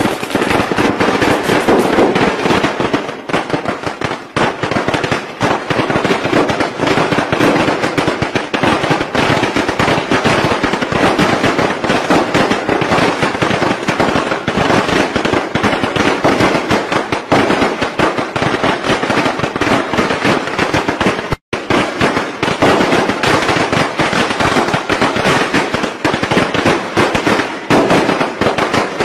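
Strings of Vietnamese Tet firecrackers going off in a loud, dense, continuous crackle of rapid bangs. The crackle cuts out for a split second about three-quarters of the way through, then carries on.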